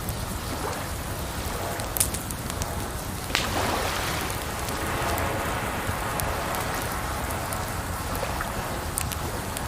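Wood fire crackling with occasional sharp pops, over a steady rush of running water.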